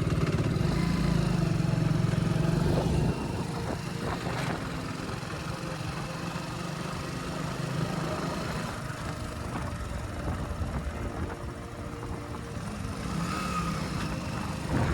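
Motorcycle engine running steadily, then dropping sharply in level about three seconds in and carrying on quieter and lower, as if easing off the throttle to slow down.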